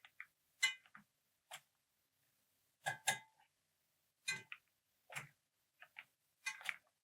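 Faint, scattered clicks and taps of a kitchen utensil against cookware, about a dozen at irregular intervals, a few with a brief metallic ring.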